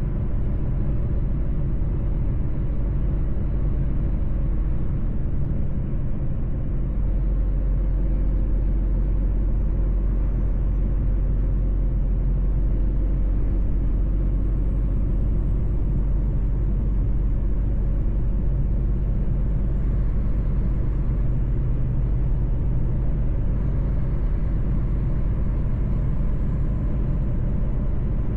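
Mercedes-Benz truck on the move: a steady engine drone with road rumble, the deep low end growing stronger about seven seconds in.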